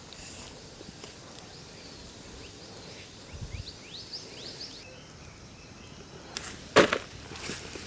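Forest ambience with a run of short rising chirps in the middle, then one loud sudden knock about seven seconds in.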